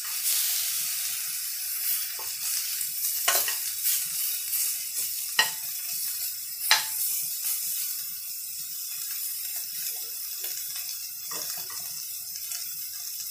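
Meat frying in a wok with a steady sizzle, while a metal spoon stirs it and knocks against the wok with a few sharp clinks.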